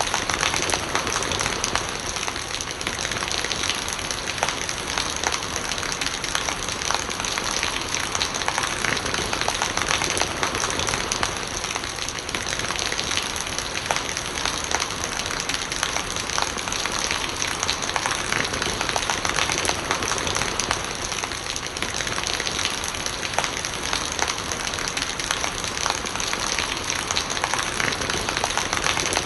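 Steady rain falling: a constant hiss with a dense patter of individual drops, unchanging throughout.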